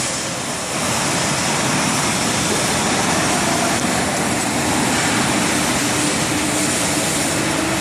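Steady mechanical running noise, an even hiss with a faint hum underneath, from a hydraulic CNC press brake.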